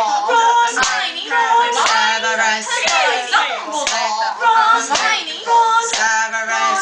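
Several girls' voices chanting and singing a rhythmic round, with hand claps keeping time roughly once a second.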